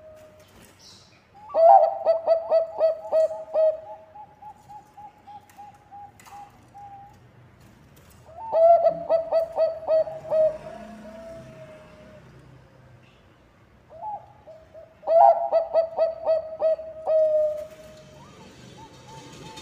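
Bangkok-strain zebra dove (perkutut) singing: three song phrases about six to seven seconds apart, each a quick run of short staccato coos ending in a drawn-out note. A fainter, softer cooing runs between the phrases.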